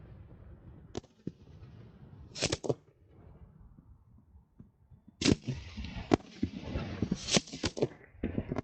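Fireworks going off: a few sharp reports in the first three seconds, then from about five seconds in a dense run of cracks and bangs for about three seconds.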